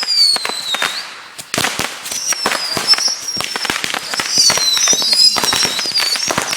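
Fireworks going off: dense, rapid crackling pops with shrill, wavering whistles, one at the very start and several overlapping from about two seconds in.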